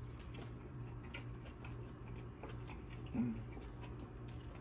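Chewing food: a run of small mouth clicks, with a short hum about three seconds in.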